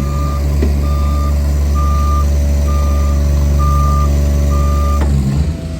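A bucket truck's warning alarm beeps six times, about once a second, over the loud low drone of the truck's engine and hydraulics working. Both stop together about five seconds in, typical of a hydraulic function such as the downriggers moving and then halting.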